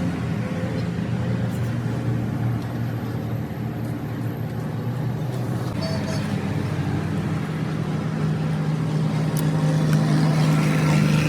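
A motor vehicle engine running steadily with a low hum, its note growing stronger over the last few seconds.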